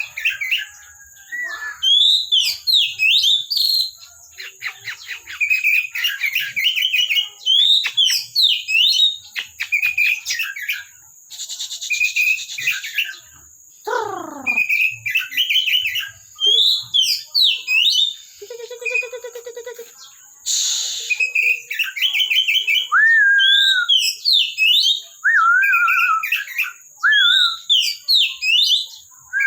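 Oriental magpie-robin (kacer) singing in full voice: varied whistled phrases, quick runs of chattering notes and sweeping whistles, repeated with short pauses.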